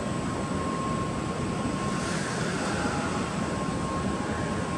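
N700S Shinkansen train running out of the station: a steady rush of rolling and air noise, with a faint thin whine in the first second.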